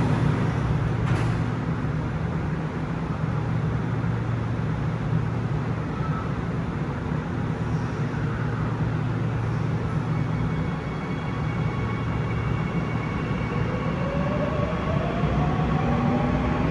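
Seoul Subway Line 9 electric train running with a steady low hum, then from about three-quarters of the way through its traction motors' whine rising steadily in pitch as it gathers speed.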